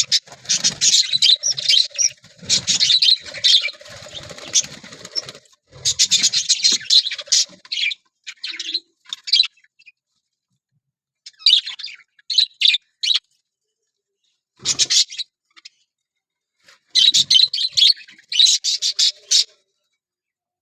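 Budgerigars chirping in rapid, high-pitched bursts, with several breaks of silence between the bursts.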